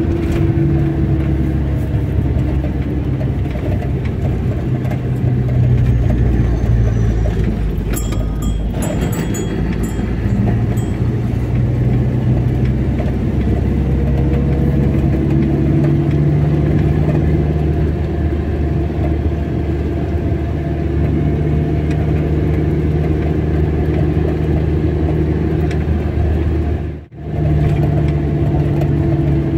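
Car engine and road noise from a moving car, with the engine note stepping up and down in pitch several times as the speed changes. A few short clicks sound about eight seconds in, and the sound drops out suddenly for a moment near the end.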